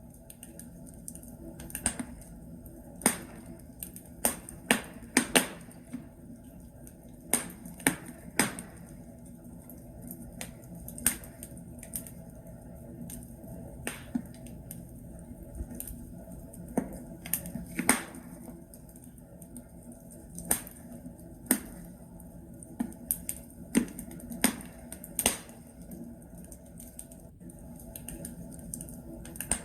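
Wood logs burning in a fireplace, crackling steadily with sharp, irregular pops and snaps every second or so.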